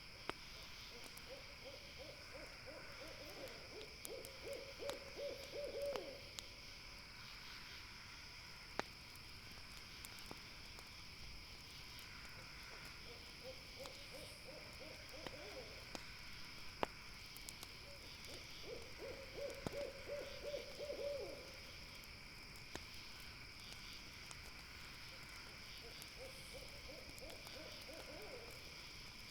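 An owl calling four times, each call a quick run of low notes lasting a few seconds, over sparse sharp crackles from a campfire and a steady high-pitched drone.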